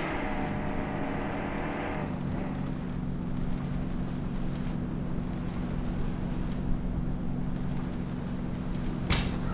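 A car engine running steadily while driving, a low hum over road rumble. A higher tone over it stops about two seconds in, and a short sharp knock comes near the end.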